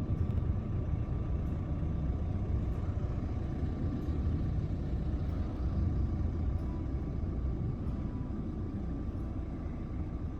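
Steady low rumbling noise with a faint steady hum above it.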